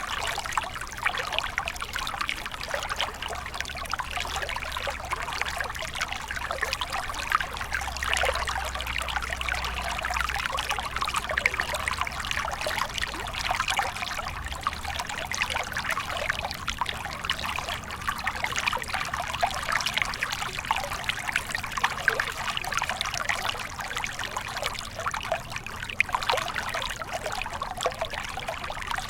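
Stream water flowing and trickling steadily, with a dense, bubbling splash.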